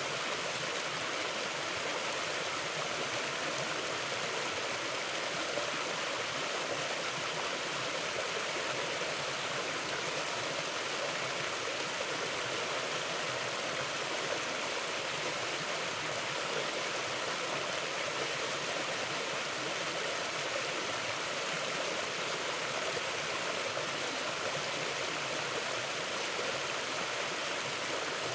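Mountain stream flowing over rocks: a steady, even rush of water with no breaks or changes.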